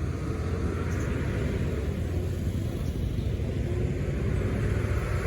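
Steady low rumble of a motor vehicle's engine running close by.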